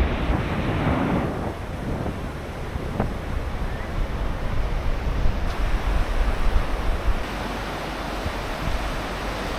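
Surf washing onto a beach, with wind buffeting the microphone in a low, uneven rumble.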